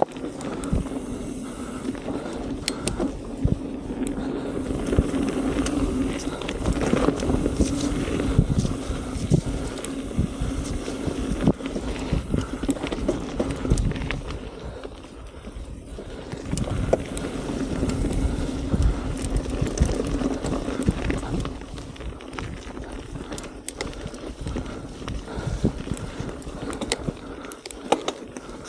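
Mountain bike ridden down a dirt singletrack: tyres rolling with a steady hum, and the bike knocking and rattling over roots and bumps.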